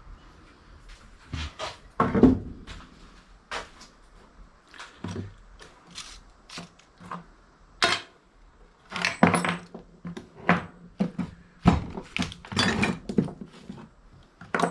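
Pieces of scrap metal clinking and clattering as they are handled and set down: a string of irregular knocks and rattles of varying loudness.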